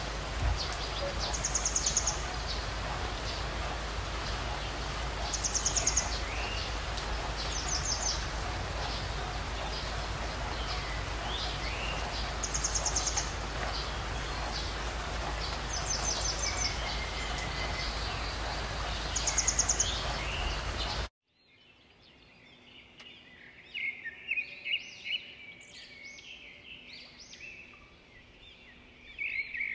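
Small birds chirping over steady background noise with a low hum; a short high trill comes about every two seconds. About 21 seconds in, the noise and hum cut off abruptly, and a quieter stretch of quick high chirps follows.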